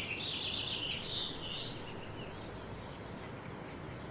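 Small bird twittering in a high, unbroken warble that fades after about two seconds into a few scattered chirps, over a steady outdoor background hiss.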